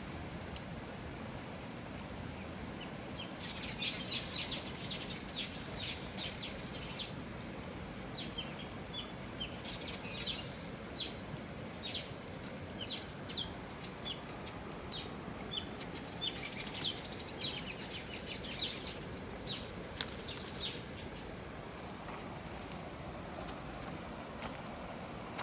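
Many small birds chirping in quick, short high notes, starting a few seconds in and thinning out near the end, over the steady rush of a flowing river.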